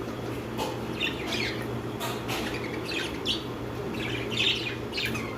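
Green budgerigar giving a quick string of short squawks and chirps, around ten in a few seconds, over a steady low hum.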